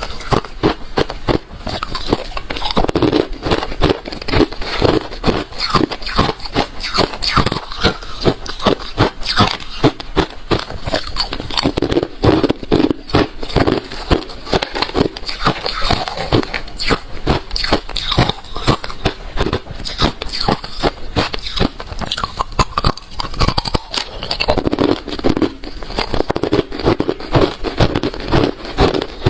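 Close-up chewing of hard refrozen crushed ice: rapid, irregular crunching and cracking as the ice is bitten and ground between the teeth.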